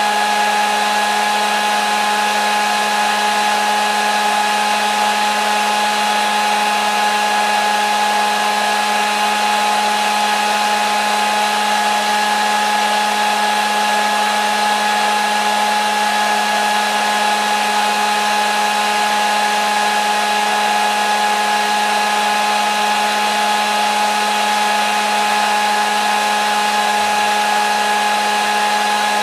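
Electric hair dryer running continuously at a steady speed: an even motor whine over a rush of blown air, with no change in pitch or level.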